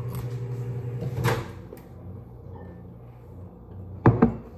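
Kitchen sounds: a steady low appliance hum that stops about a second and a half in, then two sharp knocks in quick succession near the end, such as a cupboard door banging shut.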